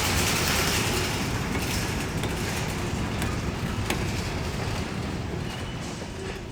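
Freight train moving: a steady rumbling noise with a few sharp clicks in the middle, slowly fading.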